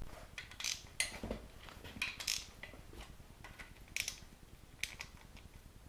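Scattered light mechanical clicks and scrapes at an uneven pace, as of tools or engine parts being handled; no power tool running.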